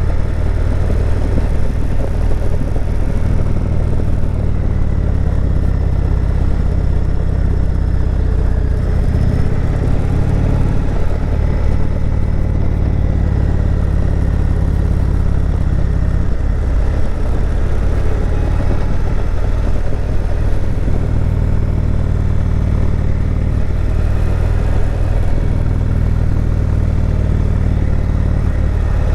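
Motorcycle engine running steadily under way, a low exhaust note that dips and shifts in pitch briefly about a third of the way in.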